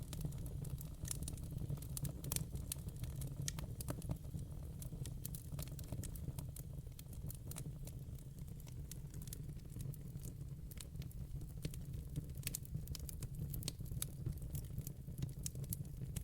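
Wood fire in a fireplace burning steadily: a low rumble of the flames with frequent sharp crackles and pops from the logs, in irregular clusters.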